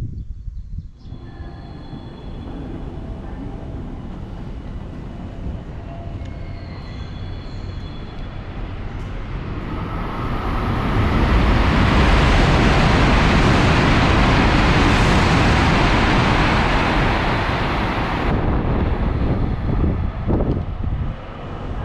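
A Shinkansen train running past the platform: a rush of rail noise builds about halfway through, holds loud for several seconds, then falls away sharply.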